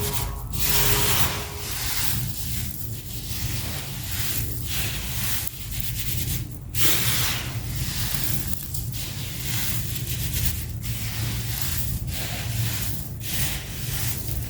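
Gritty sand-cement chunks being crumbled and crushed: a continuous grainy crunching and grinding that swells and drops, with brief breaks between handfuls.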